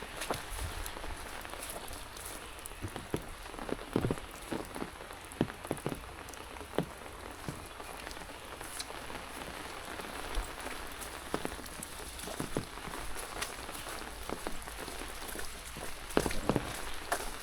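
Rain falling, a steady hiss with many irregular sharp taps of drops, bunched in a few clusters.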